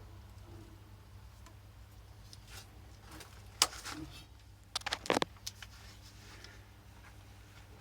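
A single sharp click about three and a half seconds in, then a quick cluster of clicks and scrapes about a second later, over a steady low hum.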